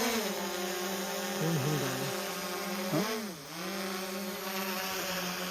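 Quadcopter drone's motors and propellers whirring, a steady buzz whose pitch dips and climbs back about three seconds in as the rotors are throttled.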